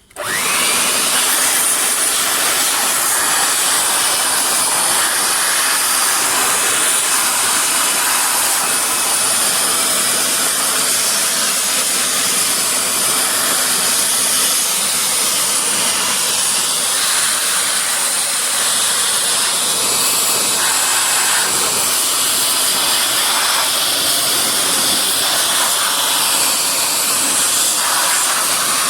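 Hitachi RB40SA blower starting up abruptly and then blowing at a steady level, a loud rushing hiss of air used to blow water out of a freshly washed car engine bay.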